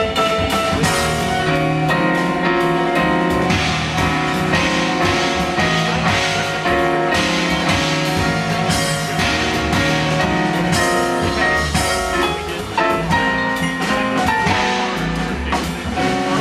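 Live jazz quintet playing an up-tempo tune: drum kit with ride cymbal under acoustic bass, piano and horns.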